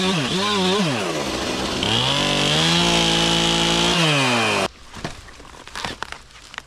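Two-stroke chainsaw revved twice, then held at high throttle for about two seconds before the revs fall and the sound drops away sharply, a little before five seconds in. Quieter clicks and rustling follow.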